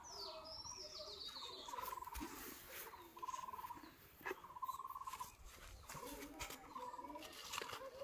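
A bird calling, a short trilled note repeated about four times, one every second or two, with scattered faint clicks and rustles of handling.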